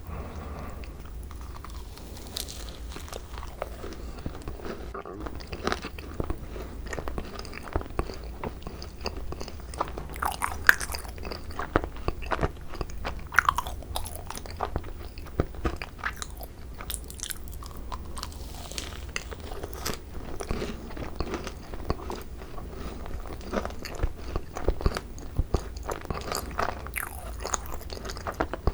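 Close-miked biting and chewing of thick cream-filled macarons (ttungkarong): the crisp shells crackle in many irregular small crunches between soft, moist chewing.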